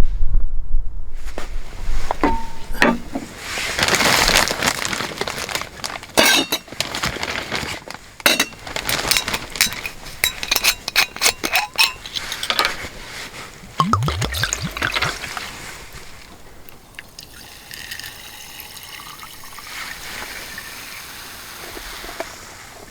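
Liquid being poured, with glassy clinks and a run of sharp clicks and knocks. A rising gurgle comes about 14 seconds in, and the sound is much quieter after about 16 seconds.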